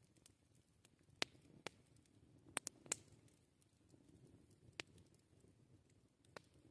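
Campfire crackling, quiet: about seven scattered sharp pops and snaps of burning wood, three of them close together midway, over a faint low hiss of the fire.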